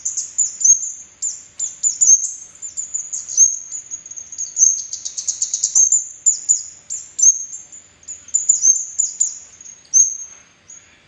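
Red-headed flowerpecker (kemade) calling: a rapid run of very high, thin, down-slurred chips and sharp ticks that thins out to a few notes near the end.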